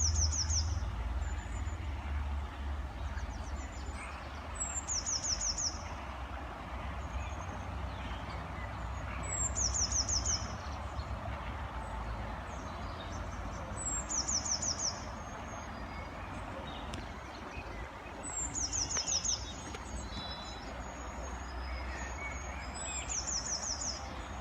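A small songbird sings a short, high, rapid trill of falling notes about a second long, repeated six times at roughly four-and-a-half-second intervals, over a steady low rumble.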